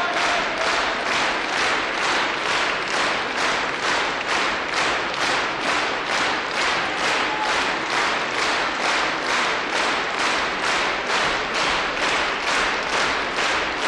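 Audience applauding in unison, rhythmic clapping at about two claps a second.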